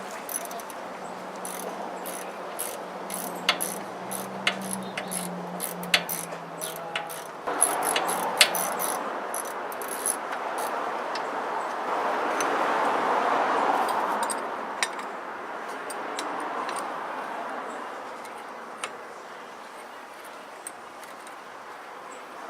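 Metal hand tools at work on a car: a run of sharp clicks and clinks, then a wash of noise that swells and fades away.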